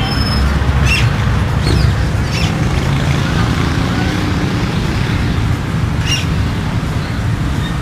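Busy bird-market ambience: a steady low rumble of street and traffic noise, with short high chirps from caged birds a few times in the first two and a half seconds and again about six seconds in.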